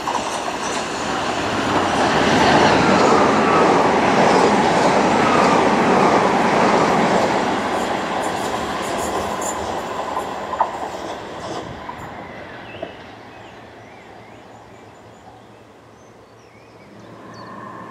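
Southeastern Class 375 Electrostar electric multiple unit passing through the station without stopping, its wheels running on the rails. The sound builds as it nears, peaks a few seconds in with a falling whine, then fades away as the train recedes.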